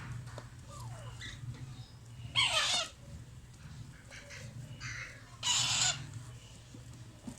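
Alexandrine parrot chicks giving begging calls at feeding: two loud calls about two and a half and five and a half seconds in, with fainter calls between them. A low steady hum runs underneath.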